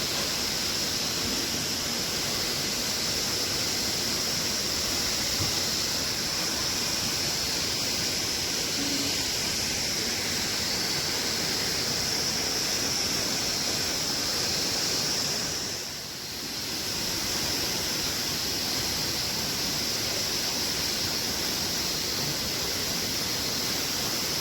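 Waterfall rushing: a steady, even roar of falling water that dips briefly about two-thirds of the way through.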